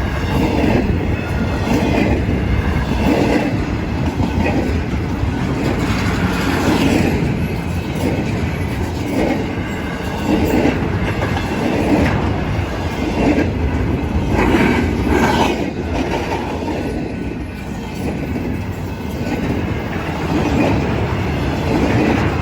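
BNSF intermodal freight train rolling past: a steady rumble with a repeated clatter of wheels over the rail joints.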